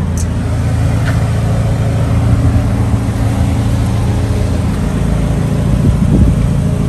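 Sports coupe's engine idling steadily, a low even hum.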